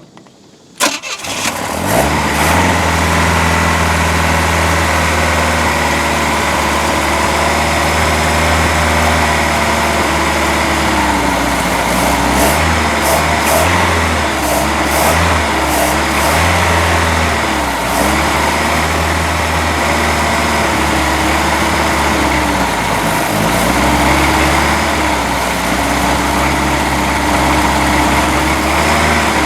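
Mercruiser 3.0 inline-four marine engine catching about a second in and then running, its speed wandering up and down instead of holding a steady idle. It runs rough, which the owner puts down to ignition timing being off and a carburettor that needs rebuilding.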